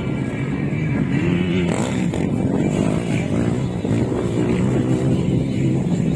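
Several motocross bikes' engines running and revving together, overlapping notes rising and falling as the riders work the throttle.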